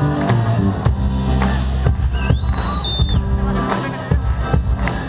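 A live band playing a song's instrumental opening, with drum kit and bass. About two and a half seconds in, a brief high whistling tone sounds.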